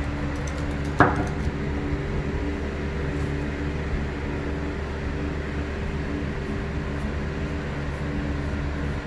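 A motor running steadily with a low, even hum, and one sharp knock about a second in.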